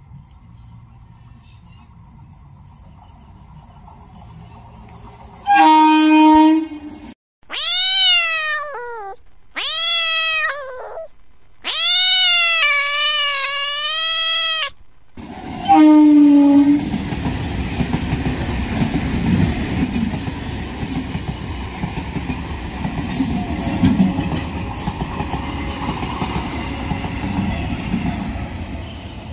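An Indian suburban electric multiple-unit train sounds one short horn blast. Three long cat meows that bend up and down in pitch follow. A second horn blast comes next, then the train passes close with a loud rumble of wheels and clickety-clack.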